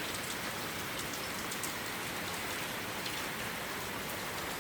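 Heavy rain falling steadily, a dense even hiss with scattered drops hitting surfaces.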